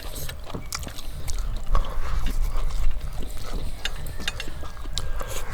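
Eating sounds: irregular small clicks and smacks of chewing and handling food, over a low rumble.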